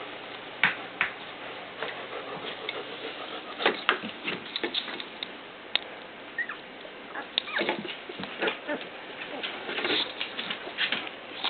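Puppies almost three weeks old whimpering and squeaking in short, scattered cries.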